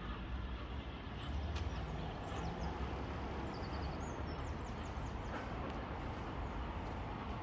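Small birds chirping in short bursts over a steady low rumble.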